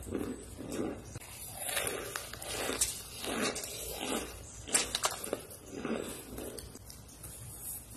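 Close-miked chewing of compacted cornstarch chunks: soft, rhythmic mouth sounds about once a second, broken by a few sharp, crisp crunches, the loudest a little past the middle.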